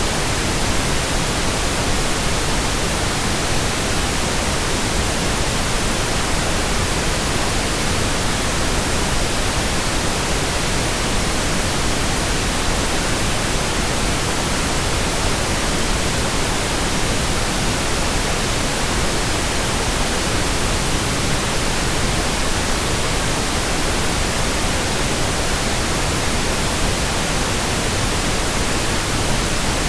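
Steady white noise: an even, unbroken hiss across the whole range of pitch, with no changes.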